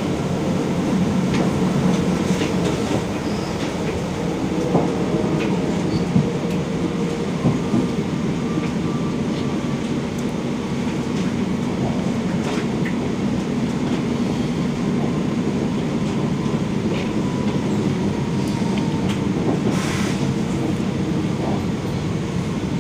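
Regional passenger train heard from inside the carriage, running on the rails: a steady rumble with scattered clicks from the wheels. A faint thin squeal comes in over the second half as the train slows for its stop.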